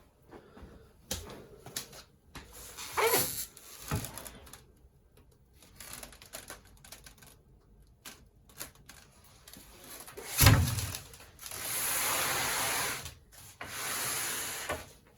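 Packing being taken off a boxed tumble dryer: scattered knocks and rustles, a heavy thump about ten seconds in, then two long scraping rubs as packing material slides off.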